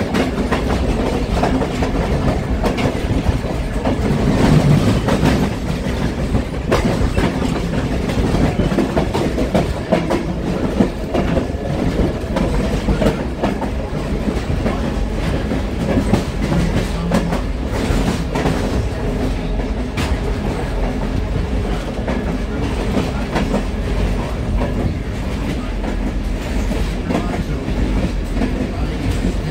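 Passenger train cars rolling along the track, heard from an open platform between cars: a steady low rumble of wheels on rail, with scattered sharp clicks and knocks.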